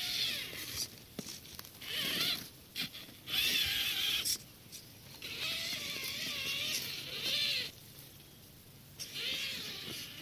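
Scale RC trail trucks' electric motors and gearboxes whining in about five short bursts of throttle, the pitch wavering as they crawl over rough ground, with quieter gaps between.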